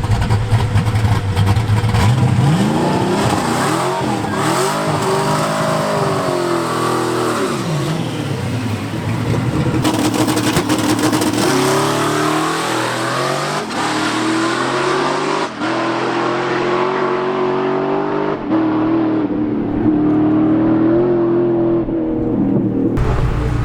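A boosted drag-racing car making a pass down the strip. Its engine note climbs and drops back several times as it shifts through the gears.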